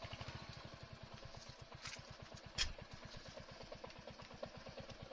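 Motorcycle engine idling with a steady low pulsing, plus a short sharp tick about two and a half seconds in.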